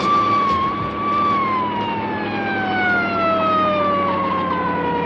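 A siren holding a steady wail, then winding down with a slow, smooth fall in pitch from about a second in.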